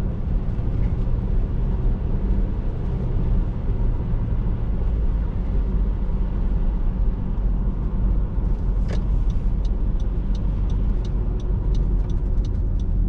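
Steady low rumble of a car's engine and tyres on a snowy road, heard from inside the cabin. About nine seconds in a brief sharp sound is heard, then a regular ticking of about two to three a second begins.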